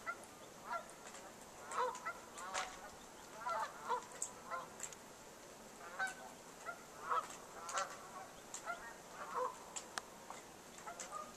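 Birds honking: many short, goose-like calls, one or two a second, irregular and sometimes overlapping, with a few sharp clicks among them.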